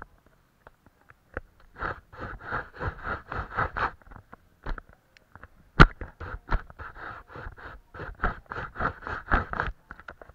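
Paintbrush scraping over paper in quick, short strokes, several a second, in runs with brief pauses. About six seconds in there is a single sharp knock.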